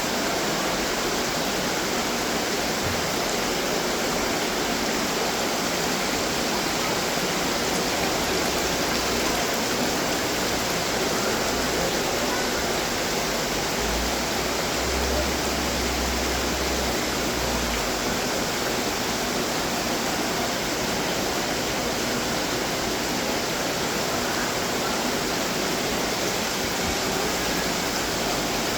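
Water running and splashing steadily from garden fountains.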